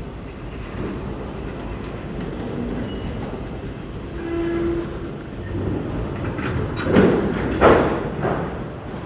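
Freight cars of a CSX train rolling past with a steady rumble. A brief ringing tone sounds a little before halfway, and two loud bangs come less than a second apart about three quarters of the way through.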